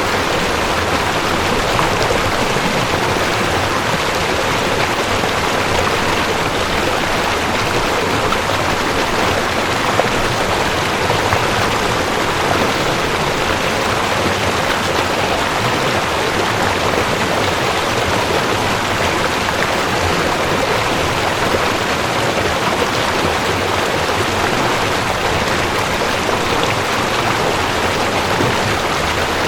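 Mountain stream rushing over rocks: a steady, dense splashing and hiss of fast water.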